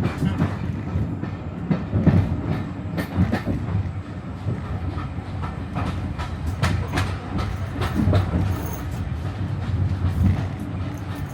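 Passenger coach of a heritage train running along the line, heard from inside: a steady low rumble with irregular clicks, knocks and rattles as the coach bounces over the track.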